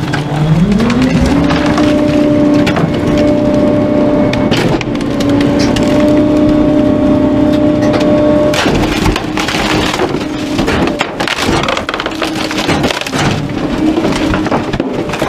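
Garbage truck engine revving up over the first second or so and holding at a high, steady speed to run the compactor, with wood cracking and splintering as bulky items are crushed, growing denser from about halfway in.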